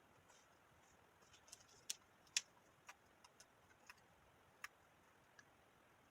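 Near silence broken by about ten faint, sharp clicks and taps, bunched in the first two-thirds, one a little louder than the rest about two and a half seconds in.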